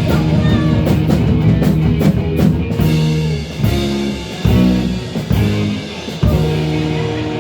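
Live rock band with drums and electric guitar finishing a song: full-band playing for a few seconds, then a run of held chords broken by short stops.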